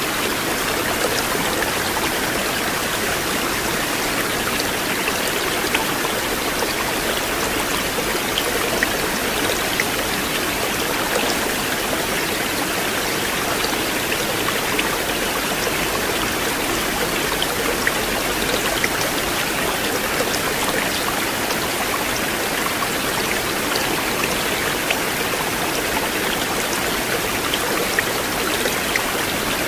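River water flowing, a steady even rush with small splashes scattered throughout.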